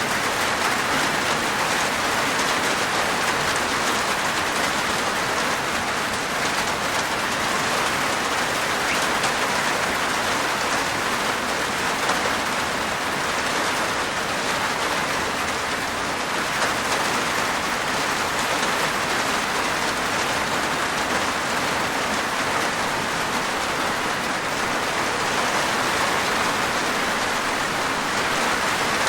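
Steady rain falling on a rooftop, a continuous even hiss of many drops.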